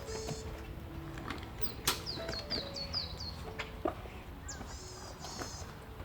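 Small songbird calling: a buzzy call, then a quick run of six down-slurred chirps, then two more buzzy calls. Scattered sharp clicks sound underneath.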